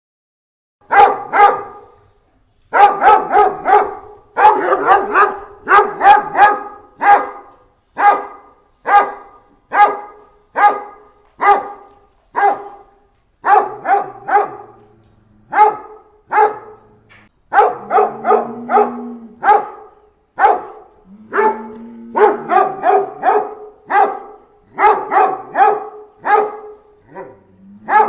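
Dog barking loudly and repeatedly, single barks and quick runs of two to four, about one to two a second.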